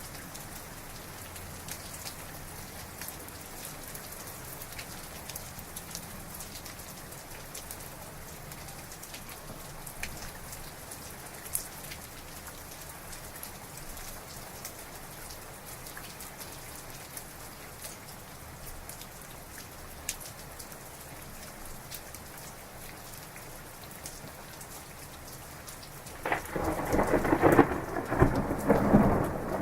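Heavy rain falling steadily with scattered drop ticks, then a sharp crack of close thunder about four seconds before the end, crackling and rumbling loudly.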